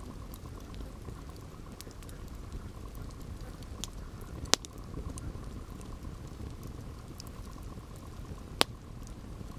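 Campfire burning: a steady low crackle and hiss of the flames, with scattered small snaps of burning wood and two sharp louder pops about four and a half and eight and a half seconds in.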